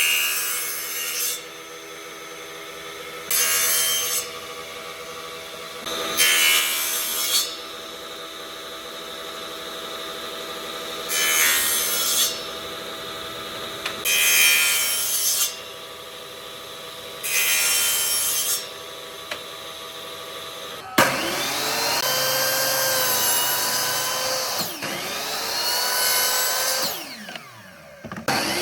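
A woodworking power tool running with a steady hum and cutting into wood in short passes, one every two to four seconds. About 21 seconds in a louder motor sound takes over, its pitch dipping and recovering as it is loaded, then falling away near the end as it winds down.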